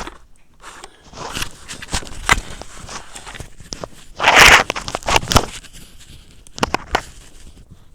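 Hands handling a USB charging cable and the drone's parts: scattered sharp clicks and rustling, with a louder rustle lasting about half a second about halfway through.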